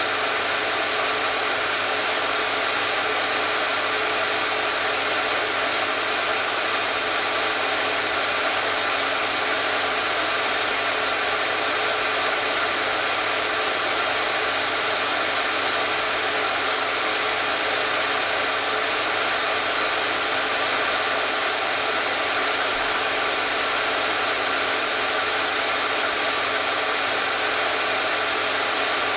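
Hair dryer running steadily: an even, unchanging rush of blown air with a faint motor hum underneath, played as white noise for soothing a baby.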